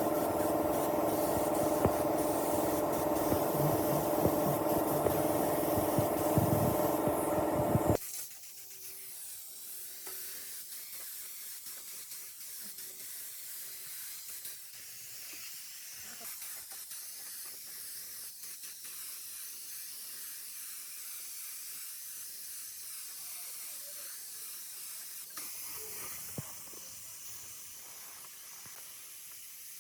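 A machine running steadily with a hiss for about eight seconds, then cutting off abruptly, leaving only a faint steady hiss.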